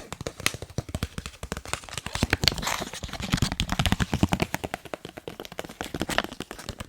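Fast tapping on a face mask: many quick taps a second, thickening into a denser, louder flurry in the middle before thinning out again.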